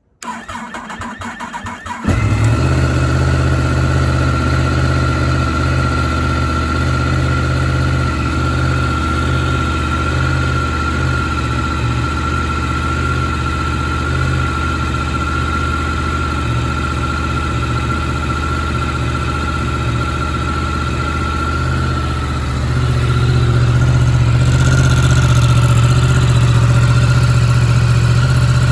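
Yamaha MT-10's crossplane inline-four engine, started from cold: it cranks on the starter for about two seconds, catches, and settles into a steady idle. About 23 seconds in the idle grows louder and a little higher.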